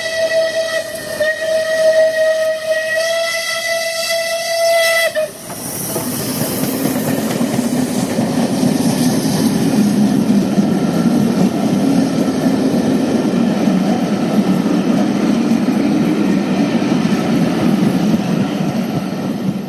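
Steam whistle of BR rebuilt Merchant Navy 4-6-2 No. 35028 Clan Line sounding one long single-note blast with two brief breaks, cutting off about five seconds in. The locomotive then runs through, a loud steady noise of engine and wheels.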